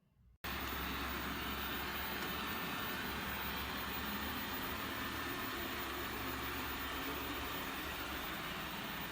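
Steady mechanical whirring noise from a running machine, which starts abruptly about half a second in and holds an even level.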